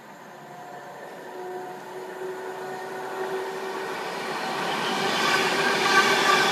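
Class 390 Pendolino electric train approaching along the platform and passing close by, growing steadily louder. A faint steady hum is heard through the middle, giving way to the rushing noise of the passing carriages near the end.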